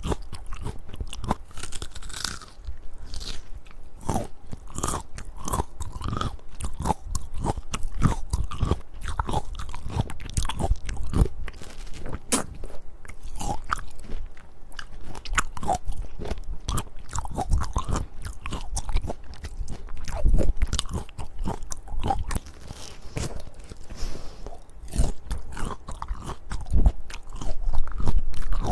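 A firm peach being bitten and chewed close to the microphone, with a steady run of crunching and wet crackles.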